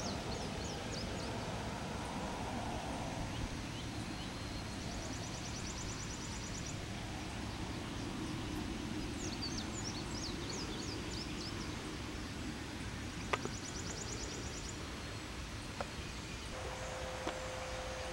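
Outdoor ambience with birds calling: bursts of short, high, falling chirps twice and a rapid high trill twice, over a steady background hiss. A couple of sharp clicks come after the middle, and a steady low hum starts near the end.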